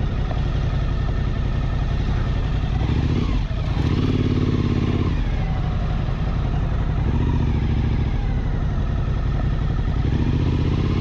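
Suzuki V-Strom 1000's V-twin engine running under way on a dirt road, its engine note rising and falling several times as the throttle is opened and closed.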